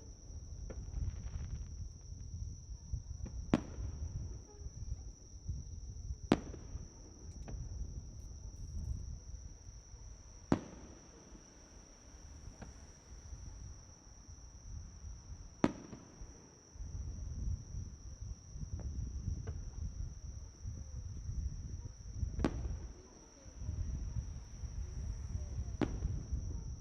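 Fireworks shells bursting in the sky: six sharp bangs a few seconds apart. A steady high insect trill, like crickets, runs underneath.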